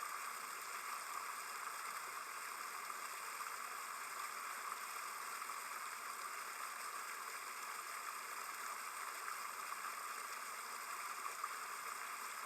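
Small woodland stream flowing over rocks, a steady, even rushing of water.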